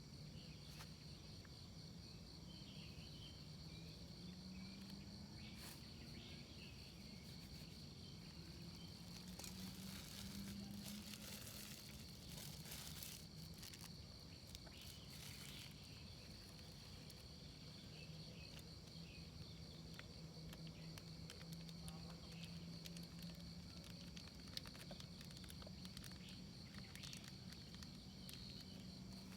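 Faint, steady high trill of insects chirping at night, with a low hum slowly drifting in pitch underneath. A few brief rustles come about ten to fifteen seconds in.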